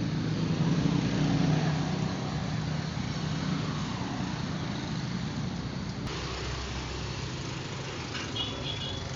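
A motor vehicle's engine running, loudest in the first two seconds and then easing off.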